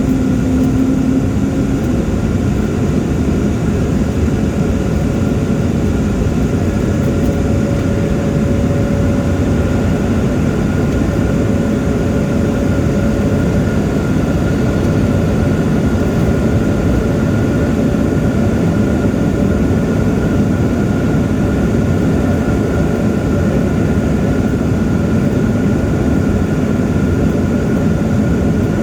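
Jet airliner cabin noise: a steady roar of engines and airflow heard from inside the cabin, with a faint steady whine above it.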